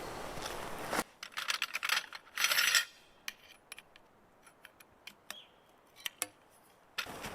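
Light clinks and rattles of small gear being handled: a dense cluster about a second in, then scattered single clicks, against a steady outdoor background that drops away abruptly at the start of the handling and returns near the end.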